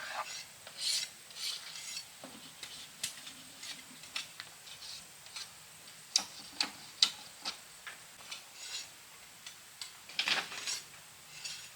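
Irregular light clicks, taps and rubbing from small objects being handled, with a few sharper clicks about halfway through and a short rustle near the end.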